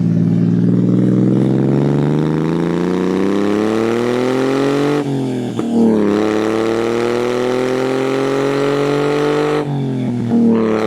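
A 1997 Honda Acty kei truck's 660cc three-cylinder engine, heard through an aftermarket exhaust, accelerating through the gears. The engine's pitch climbs steadily and drops at a gear change about five seconds in. It climbs again and drops at a second gear change near the end.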